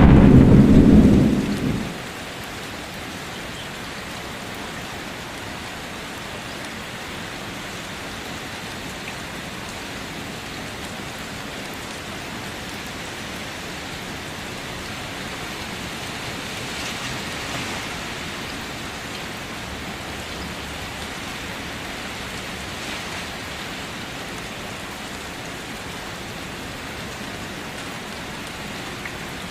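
Thunder rumbling low and dying away about two seconds in, then steady rain falling.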